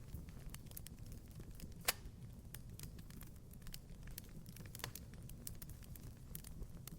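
Wood fire crackling in a fireplace: irregular sharp pops and snaps over a low steady rumble, with one louder pop about two seconds in.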